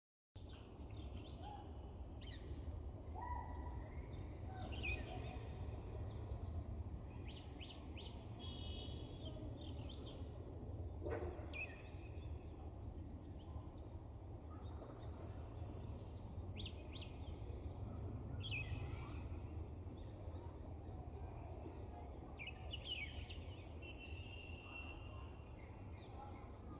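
Several small birds chirping and calling on and off, with short notes and brief trills, over a steady low background rumble.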